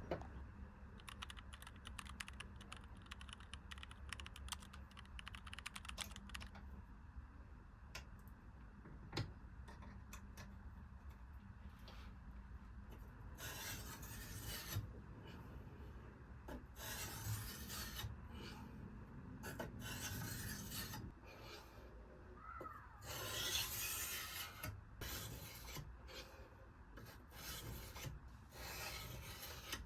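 A hand file scraping across steel. It starts as fine, rapid scratching, then from about halfway turns into separate longer strokes, roughly one a second.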